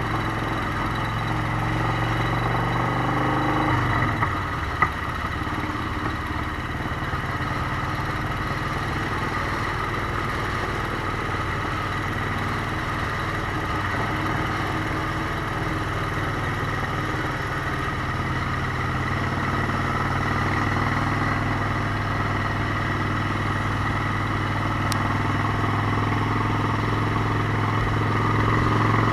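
Motorcycle engine running steadily under way. Its note changes about four seconds in, and a single short click follows soon after.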